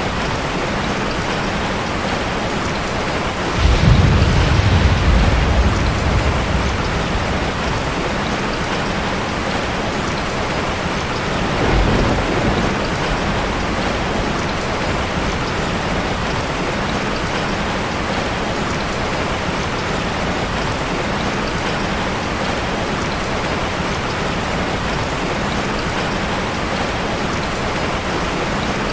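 Heavy rain falling steadily, with a deep rumble of thunder about four seconds in that fades over a few seconds, and a fainter rumble around twelve seconds in.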